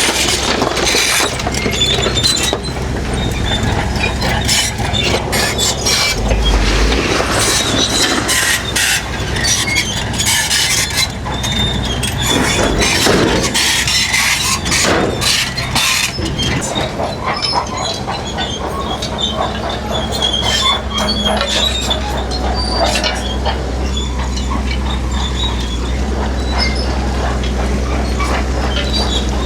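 Crawler bulldozer working: the diesel engine runs steadily while the steel tracks clank and squeal, with repeated knocks and scraping from rock throughout.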